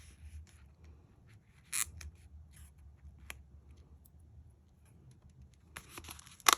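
Paper packaging being handled: scattered light clicks and rustles, one sharper snap about two seconds in, then louder paper rustling near the end as an envelope is opened.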